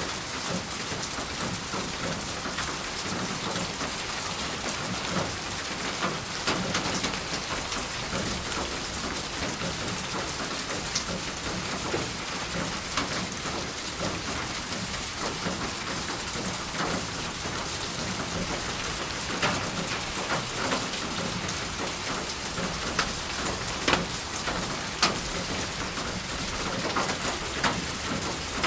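Steady rain falling on a surface, an even hiss with scattered sharper drop taps standing out every second or two.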